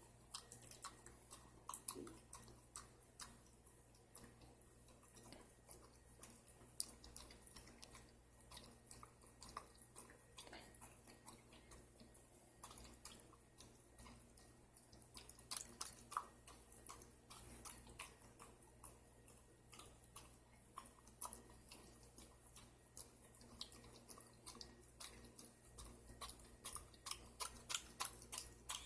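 A pet licking and smacking at peanut butter: faint, wet clicking mouth sounds that come more thickly near the end.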